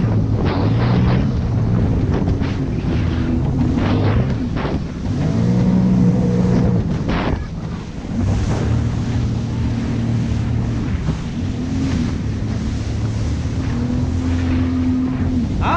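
Jet ski engine running under changing throttle, its pitch rising and falling, with water slapping and spraying against the hull several times in the first half and wind buffeting the microphone.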